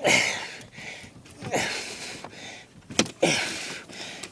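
A woman breathing hard from the effort of wading through hip-deep snow, with three heavy exhales about a second and a half apart, each ending in a short falling groan.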